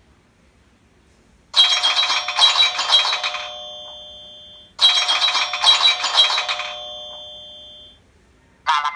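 An iPhone ringtone playing from the phone's speaker: two rings of rapid bright bell strikes, each about two seconds long and then ringing away, like an old telephone bell.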